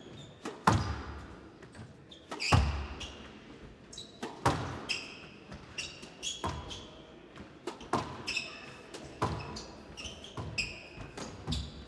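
Squash rally: the ball cracking off rackets and walls about every one to two seconds, each hit followed by a short echo, with shoes squeaking on the court floor between shots.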